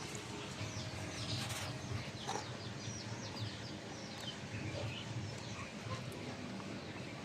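Birds calling: many short, high chirps, repeated over a steady low background.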